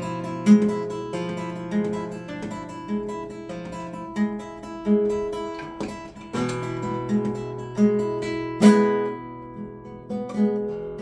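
Acoustic guitar being played: picked notes and chords ringing out in a steady rhythm, with harder strummed chords about six and a half seconds in and again near nine seconds.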